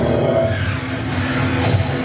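Dramatic soundtrack-style music playing through an LG DH3140S 5.1-channel home theatre system, with steady held notes, as a speaker sound test.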